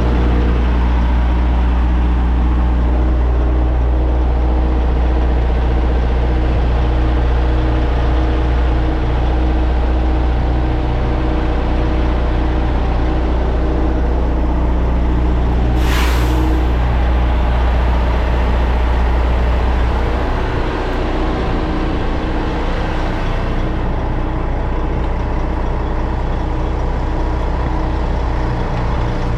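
Heavy diesel engine idling steadily, its low hum dropping about 20 seconds in. About 16 seconds in there is one brief, sharp hiss of released air.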